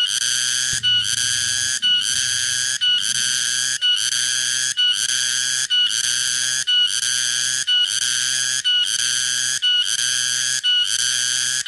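Cicada (tonggeret) song: a loud, high-pitched buzz repeated in even phrases about once a second, each broken by a brief short tone before the next starts.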